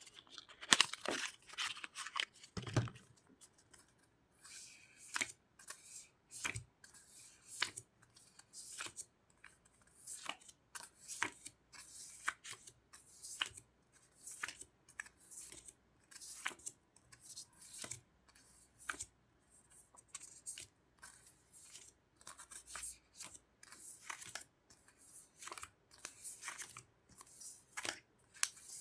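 Sticker sheets and their packaging being handled and opened close to the microphone: a run of short crinkles, peels and tearing snaps, roughly one a second.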